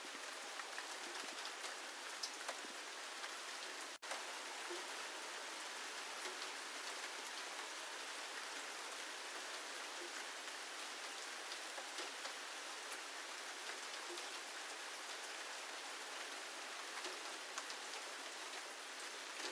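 Steady rain falling, with scattered individual drops ticking through the hiss. The sound cuts out for an instant about four seconds in.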